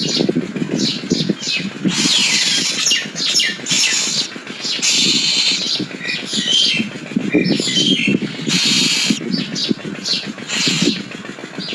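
Nias hill myna calling: a run of loud, harsh squawks and whistled notes, some of them gliding in pitch, coming one after another.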